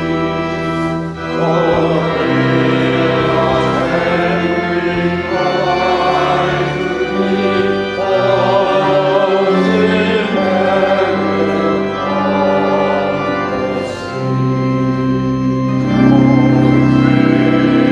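Church organ playing slow, sustained chords that change every second or two. It swells louder about sixteen seconds in.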